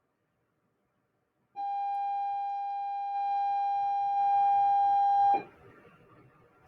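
A single long electronic beep: one steady tone that starts about a second and a half in, gets louder in two steps and cuts off suddenly after nearly four seconds.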